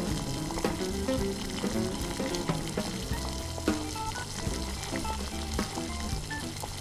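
Food frying and sizzling in a tiny pan on a miniature stove, under background music with a melody and a beat.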